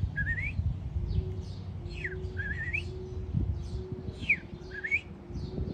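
A person whistling an imitation of an American robin, the same phrase three times: a quick falling slide, then a wavering rising note.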